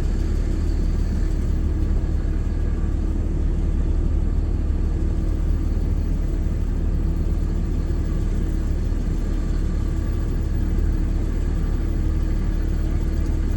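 Four-wheel-drive vehicle's engine running steadily, heard from inside the cab as a low rumble with a steady hum.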